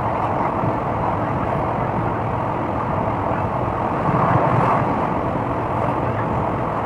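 Steady running noise of a moving passenger train heard from an open coach door: wheels on the rails and the rush of passing air, swelling briefly about four seconds in.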